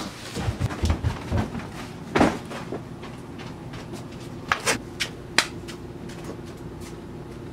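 Soft bare footsteps and a cardboard box being carried and set down: a run of low thumps, one sharper knock about two seconds in, and a few short clicks and knocks a couple of seconds later, over a faint steady hum.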